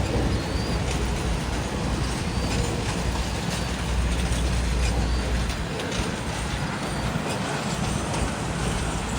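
A train rolling past with a heavy low rumble that drops away a little over halfway through, leaving a lighter running noise.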